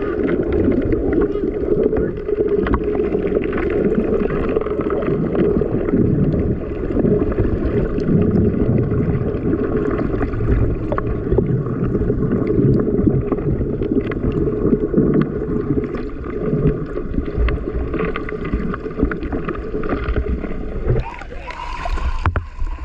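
Small fishing boat under way on the water: a steady, loud rumbling noise with a low rumble. About two seconds before the end the low rumble drops away and a brief hiss takes over.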